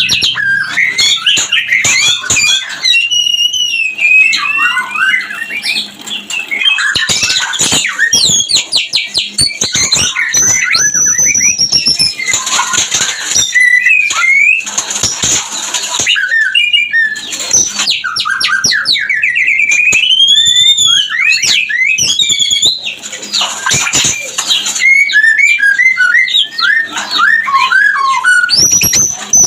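White-rumped shama (murai batu) song in breeding condition: a continuous, fast and varied run of whistles, rising and falling trills and harsh chattering notes. It is the mating call used as a lure to bring other shamas into breeding mood.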